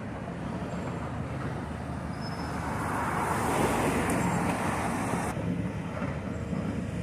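Road traffic running steadily, with one vehicle passing close by: it builds up about two and a half seconds in and fades out a couple of seconds later.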